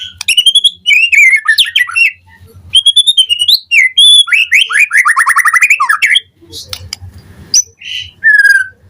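White-rumped shama (murai batu) singing a fast, varied song of loud whistled phrases and rapid trills. About six seconds in the song breaks off, leaving a few short single whistles over a faint low rumble.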